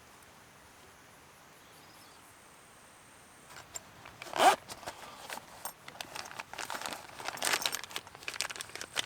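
Crinkly material being handled, starting about three and a half seconds in: one loud rising swish, then irregular crinkling and rustling.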